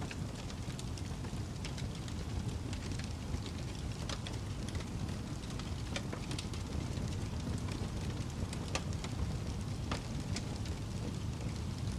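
Wood fire burning in a fireplace: a steady low rumble of flames with irregular sharp crackles and pops of burning logs scattered throughout.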